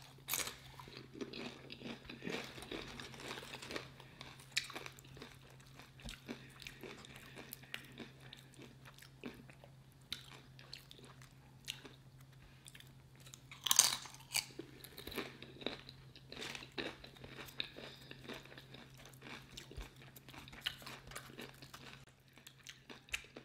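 A person chewing and crunching food from a burrito bowl, with small irregular crackles and one louder crunch about 14 seconds in.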